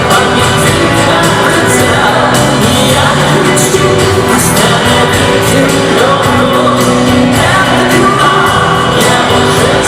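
Live rock band playing loudly, a dense full-band passage with some singing over it.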